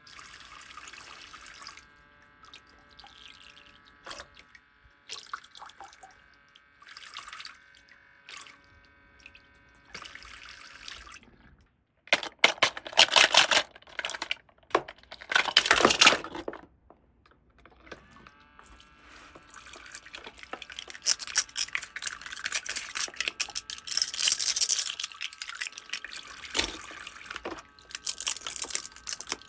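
Water running and splashing in irregular bursts in a toy playset, with a few louder gushes.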